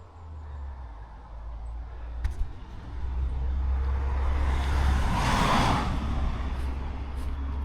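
A car passing by on a road, its noise swelling to a peak about five and a half seconds in and then fading, over a steady low rumble.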